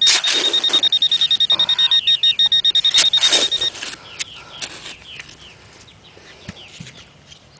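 Garrett Pro-Pointer pinpointer giving a rapid, high-pitched pulsing beep as it sits on a metal target in the dug hole. The beep cuts off about three and a half seconds in, leaving scraping sounds of digging in sand.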